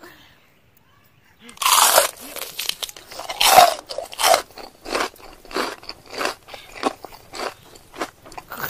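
Crunchy bite into a sineguelas (Spanish plum) fruit about a second and a half in, then steady close-up crunchy chewing, about three chews a second.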